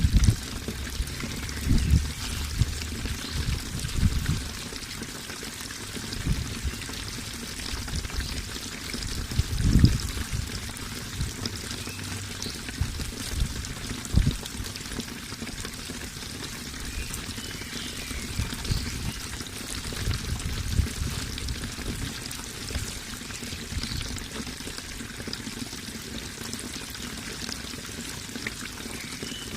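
Running water pouring and trickling steadily, like a small stream or cascade, with irregular low thuds underneath, the loudest about ten seconds in.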